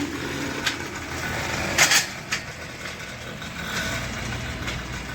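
Small 100cc petrol engine of a farm cart running steadily, with a sharp clatter about two seconds in.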